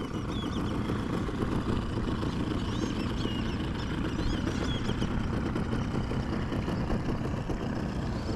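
Steady low rumble of a boat motor idling, with faint chirps up high near the middle.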